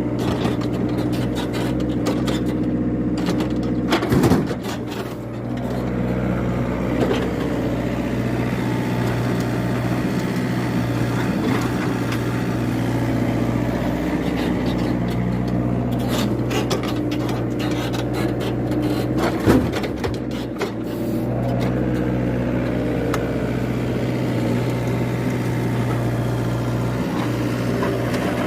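Excavator's diesel engine running steadily, with two short knocks, about four seconds in and again about halfway through.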